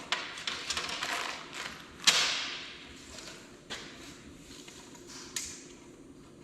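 Workshop handling noise: scraping and clattering of material and tools, with one sharp loud knock about two seconds in that rings briefly, and two lighter knocks later.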